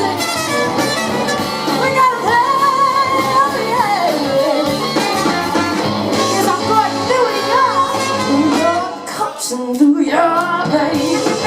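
Live soul-rock band playing, with singing and electric guitar over the band. The music drops briefly about nine seconds in, then comes back.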